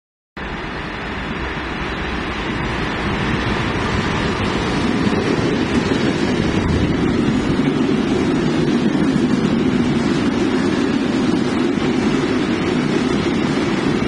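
Train running, a steady rushing rumble that starts abruptly and grows louder over the first five seconds, then holds.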